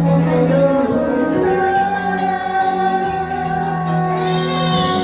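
A woman singing a song over instrumental accompaniment, holding long notes.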